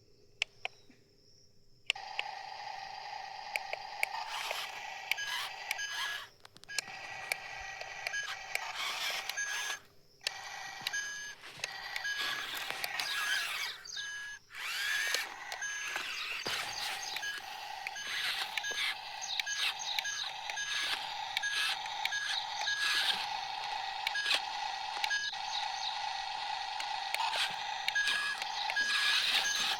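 Small electric motor of an RC toy vehicle whirring, stopping and starting several times, with short electronic beeps repeating at an even pace and scattered clicks.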